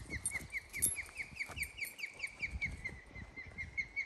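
A bird calling a long, even series of short down-slurred notes, about five a second, steady in pitch.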